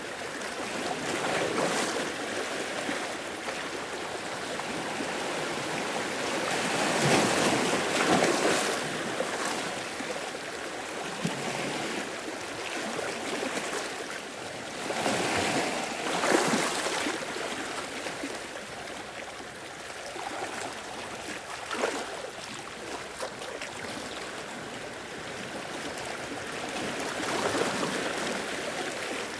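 Small sea waves washing in and draining back over rock and sand, a steady rush with a louder surge every several seconds.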